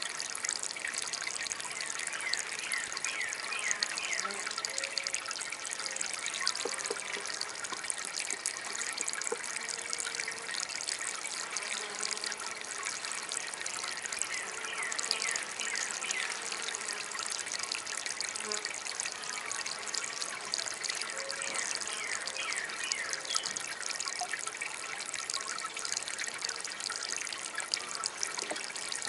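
Small homemade water fountain trickling steadily, with many brief splashy droplet sounds over an even wash of running water.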